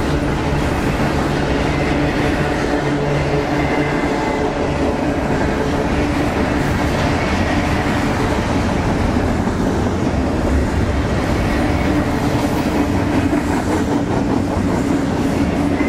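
Double-stack intermodal container freight train rolling past close by: a steady, loud rumble and clatter of the railcars' wheels on the rails.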